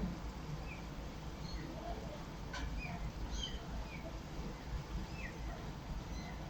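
Small birds chirping: short high calls, scattered and irregular, over a steady low rumble, with one sharp click about halfway through.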